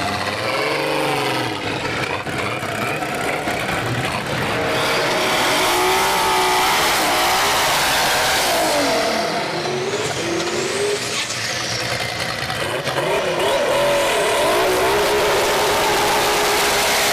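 Drag race car engine accelerating hard, its revs climbing and dropping back several times as it shifts up through the gears, with some tire noise.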